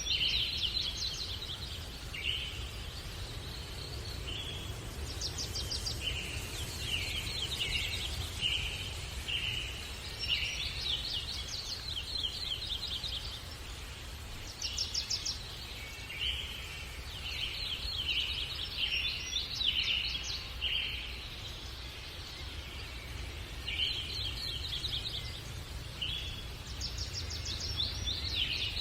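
Small songbirds chirping and singing in short phrases of rapid notes and quick trills, repeating every few seconds, over a steady low rumble.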